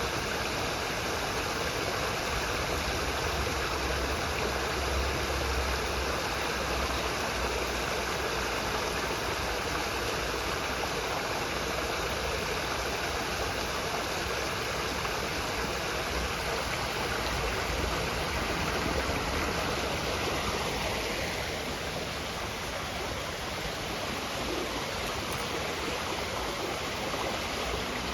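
Steady rushing of water from a stream, a constant noise with no breaks; it eases slightly a little past the middle.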